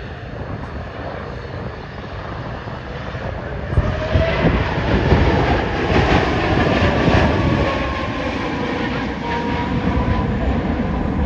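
Aircraft engine noise passing overhead: a steady rushing roar that swells sharply about four seconds in and stays loud, with faint whines that slowly change pitch.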